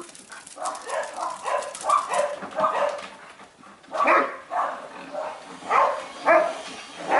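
Dogs barking in a run of short barks, about two a second, louder in the second half. This is typical of the owner's dogs and the neighbour's dog squaring off, which she wonders may be territorial.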